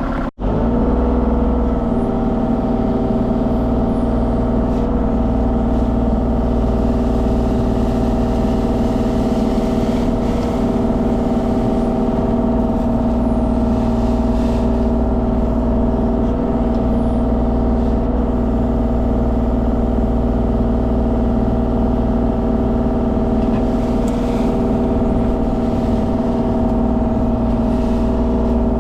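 Mini excavator's diesel engine running steadily at a constant speed, with a momentary dropout just after the start.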